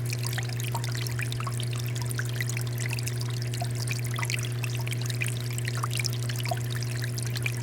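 Water fountain flowing, with water steadily splashing and trickling in many small droplets, over a steady low hum.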